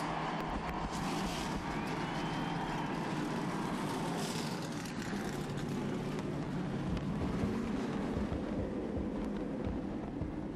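A field of NASCAR stock cars' V8 engines running together just after being started, a dense steady din with a few brief revs in the first few seconds.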